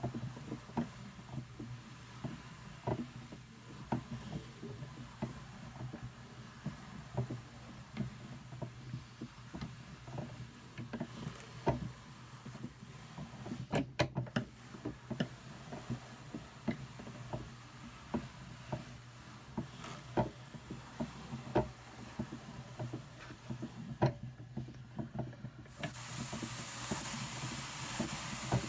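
Hand-cranked drum carder turning, its fine carding cloth combing wool fiber with a rubbing sound and many irregular small clicks. Near the end a brighter scratchy hiss joins in.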